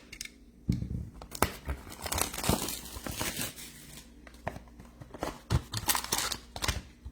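Trading-card pack wrapper crinkling and tearing as a baseball card box is opened and the cards are handled: a run of irregular rustles and sharp scrapes.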